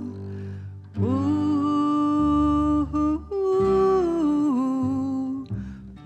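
Wordless sung melody, a voice humming long held notes that step down in pitch, in two phrases with a breath before each, over a steady low instrumental accompaniment.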